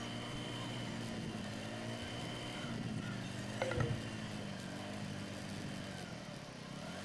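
Steady engine hum and road noise of a vehicle driving along a city street, with one brief louder sound a little past the middle.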